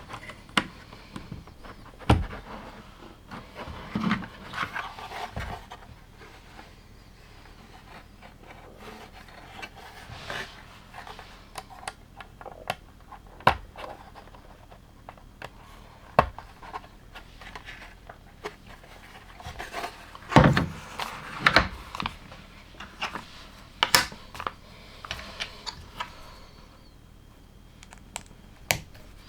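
LEGO pieces being handled: scattered clicks, taps and snaps of plastic bricks being picked up and pressed together, with soft rubbing and rustling between them and a few louder knocks.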